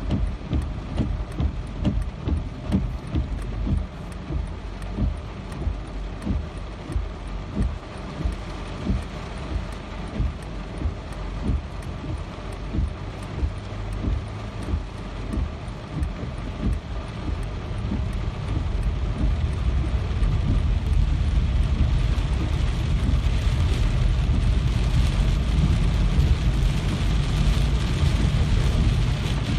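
Rain falling, with many separate heavy drops striking close by. About twenty seconds in it swells into a steadier, louder downpour.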